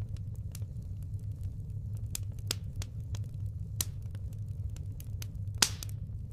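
Firewood burning: scattered sharp crackles and pops over a steady low rumble, with one louder pop near the end.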